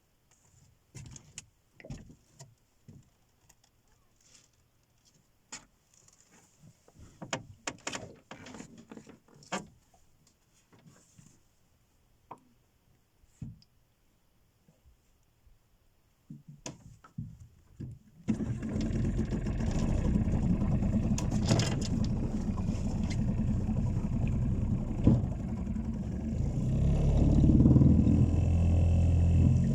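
Scattered knocks and clatters, then about two-thirds of the way in a small boat's engine starts abruptly and runs steadily, growing louder near the end as the boat gets under way.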